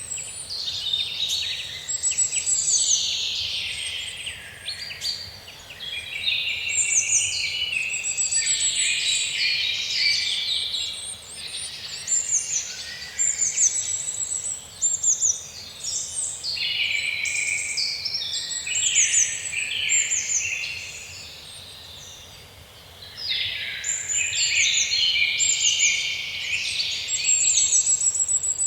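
Several songbirds chirping and singing at once, a busy chorus of overlapping high chirps and quick repeated trills, which thins out for a few seconds after the middle before picking up again.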